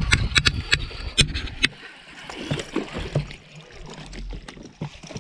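Sharp knocks and clicks from handling gear in a boat, with some water splashing, while a hooked bass is fought; the knocks come thick in the first second and a half, then thin out.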